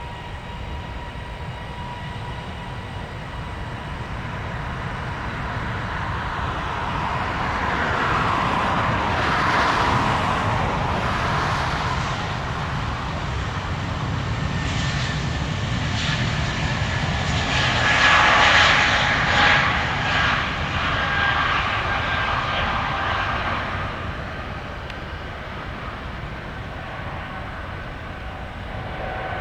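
Jet airliner passing by: the engine noise builds to a peak about 18 seconds in, with a whistling whine that drops slightly in pitch as it goes past, then fades.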